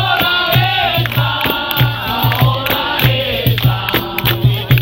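Capoeira roda music: a group singing a chant in chorus over a hand drum and percussion playing a steady rhythm.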